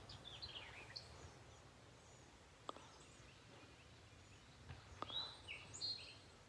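Faint birdsong: scattered high chirps and short whistled phrases, a group near the start and another about five seconds in, with a couple of soft clicks between.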